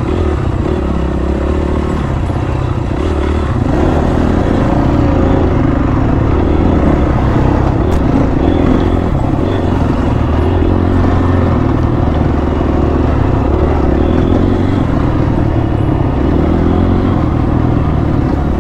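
Dirt bike engine running steadily at low revs while riding slowly over rough ground, with some rattle from the bike.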